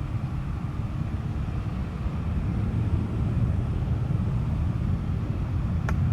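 Low, steady rumble of distant jet airliner engines, growing a little louder about halfway through. A single sharp click near the end.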